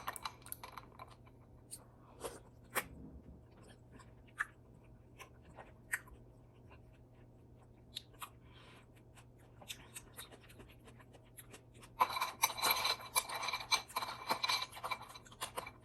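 Spoon against a bowl of fruit and ice: scattered light clicks, then a dense run of clinking and scraping about twelve seconds in that lasts a few seconds.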